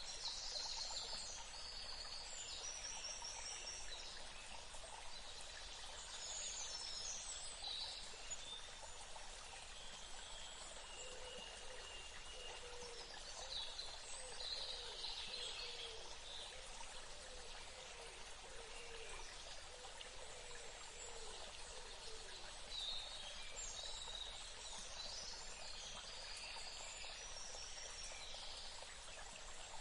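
Steady rush of running water, like a stream, with birds singing in short bursts of high chirps several times over it.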